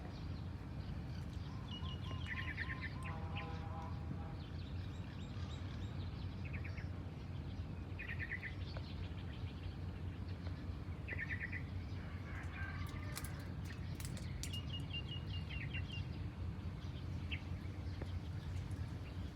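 Birds chirping in short, repeated trills every few seconds over a steady low background rumble.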